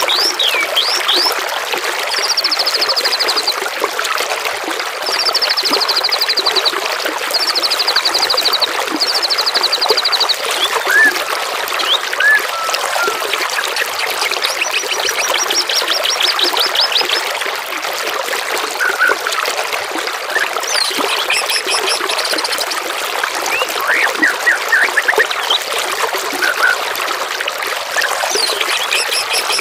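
Steady trickling, babbling water with songbirds singing over it: several rapid high trills of a second or two each, plus scattered chirps and a few very high thin notes later on.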